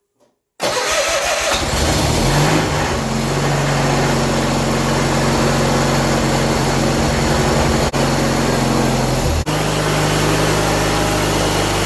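John Deere 317 garden tractor engine starting about half a second in, catching roughly within a second or so, then running steadily.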